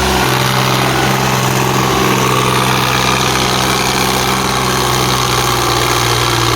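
Tractor diesel engine running steadily at a constant pitch.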